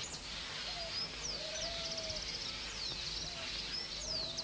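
Birds calling: high, quickly falling whistles and fast rattling trills, with a lower drawn-out note repeated every second or so.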